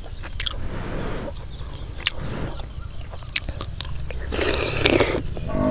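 Eating sounds close to the microphone: sharp bites and chewing of whole boiled pak wan (Melientha suavis) fruits from a curry, with a louder, longer crunching burst about four and a half seconds in.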